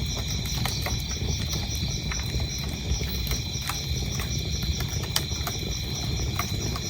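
Wood fire crackling, with scattered sharp pops over a steady low rumble of the flames, and crickets chirping in a steady, rapid rhythm.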